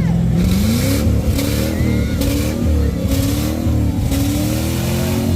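A car engine revving, its pitch climbing and swaying as the throttle is blipped in about five surges.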